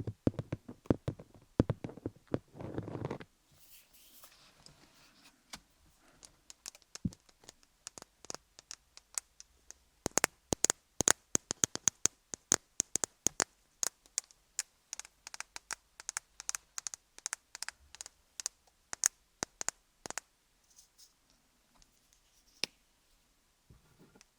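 Muffled tapping on a rhinestone-covered dummy-head microphone for the first three seconds. Then fingers slathered in Vaseline work over the stones, making sticky clicks and scratchy crackles that become a dense run of sharp clicks in the middle and thin out near the end.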